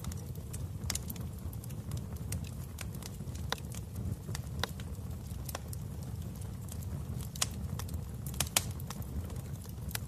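Wood fire burning in a fireplace: a steady low rumble of flames with sharp, irregular crackles and pops, one or two a second, the loudest near the end.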